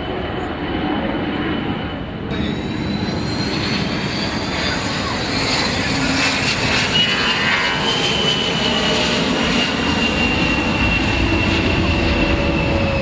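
Aircraft engine running, with a high whine that rises in pitch around the middle and then slowly falls.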